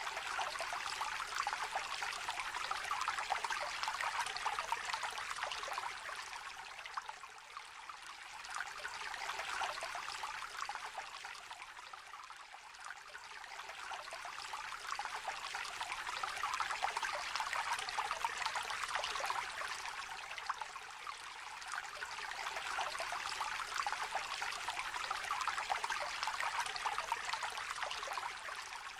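Shallow river trickling and babbling steadily, its level swelling and easing slowly every several seconds.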